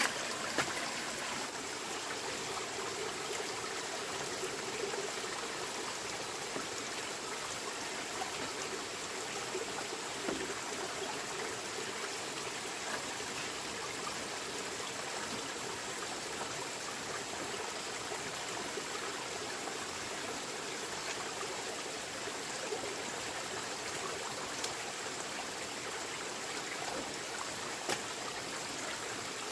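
Steady flow of running water, with a few faint clicks scattered through it.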